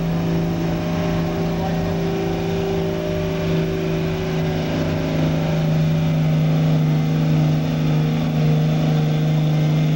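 Diesel truck engine running at a steady pitch, getting slightly louder after about five seconds.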